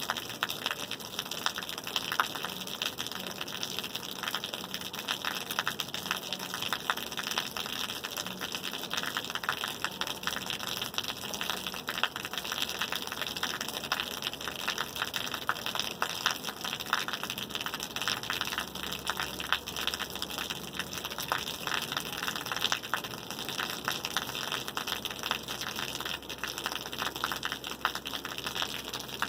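Steady rain falling: an even hiss made of countless fine drop impacts.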